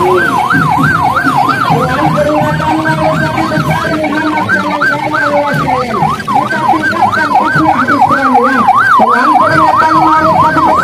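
Electronic yelp siren sweeping rapidly up and down in pitch, about three to four cycles a second, with a short stumble midway, over lower steady tones.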